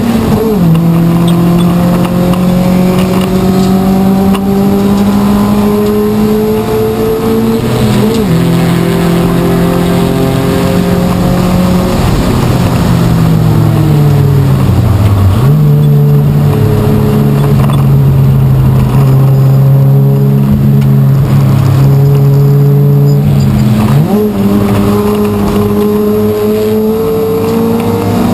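Race car engine heard from inside the stripped, caged cabin, running hard on track. Its pitch drops with a gear change just after the start and again about a third of the way in; around the middle the revs fall steadily as the car slows, then jump up with a downshift and climb again, with another gear change near the end.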